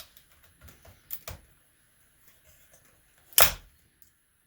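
Laptop parts being handled on a work surface: a few light plastic clicks, then one sharp clack about three and a half seconds in, as a part is set down.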